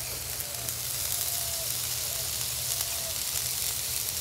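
Brisket burger patties sizzling on a hot cast iron griddle top: a steady frying hiss with light crackles.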